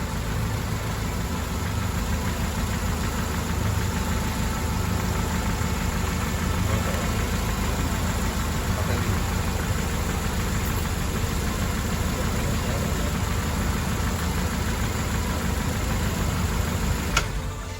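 Mercedes-Benz W124 230E's 2.3-litre four-cylinder petrol engine running steadily at idle. There is a single sharp click near the end, and then the sound drops away.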